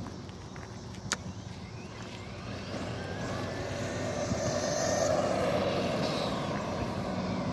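A car driving past, its engine and tyre noise swelling to a peak about five seconds in and then easing off, with a faint high whine near the loudest point. A sharp click sounds about a second in.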